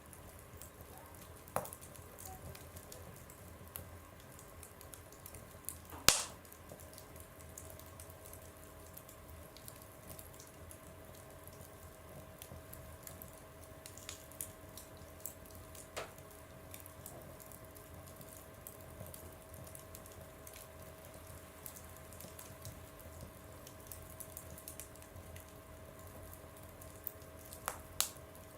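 Wood fire burning in a stove, crackling softly with scattered small pops and one sharp loud pop about six seconds in. A faint steady high note sets in after the loud pop.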